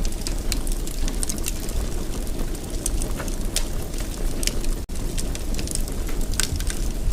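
Wood fire crackling in a fireplace: a steady low rumble of burning with frequent sharp pops and crackles, and a momentary break in the sound about five seconds in.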